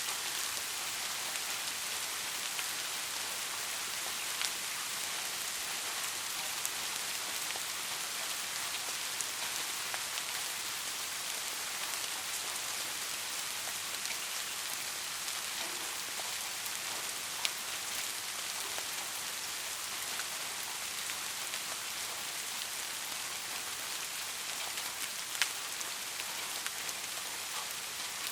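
Steady rain falling and pattering on a surface, an even hiss with scattered louder single drops, two of them about 17 and 25 seconds in.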